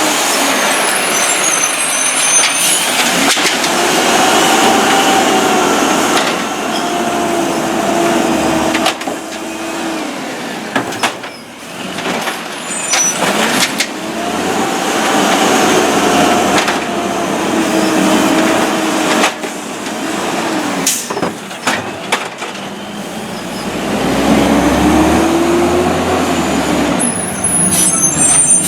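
Peterbilt garbage truck's diesel engine revved up and down by hand in repeated long cycles, driving the hydraulics of its Amrep Octo automated side-loader arm. Between revs come a few sharp clanks and air-brake hisses.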